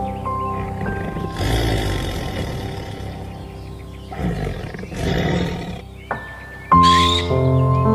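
Calm background music with an animal's rough, drawn-out call over it about a second and a half in, and a second, shorter call about four seconds in.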